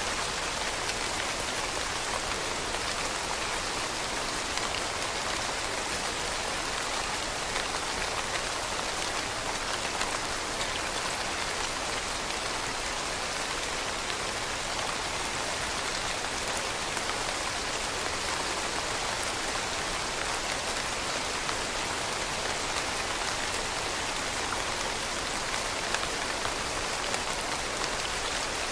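Steady rain falling on leaves, a dense even patter with scattered individual drops ticking through it.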